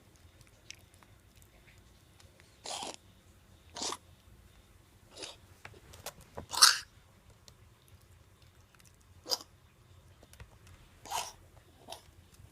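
Two-month-old pug puppy coughing in short bouts, about seven coughs spread out, the loudest about halfway through: the cough of kennel cough.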